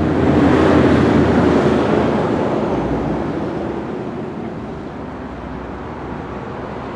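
A broad rushing noise, loudest in the first two seconds and slowly fading away over the next several seconds.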